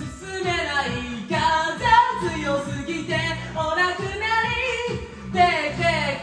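A singing voice performing a Japanese pop song over a backing track.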